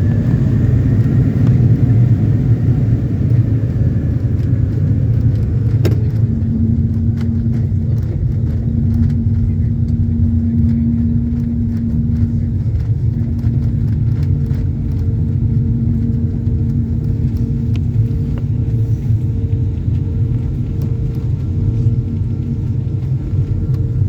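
Airliner cabin noise during landing: a steady low rumble, with a faint whine falling in pitch over the first few seconds, then a steady hum from about six seconds in.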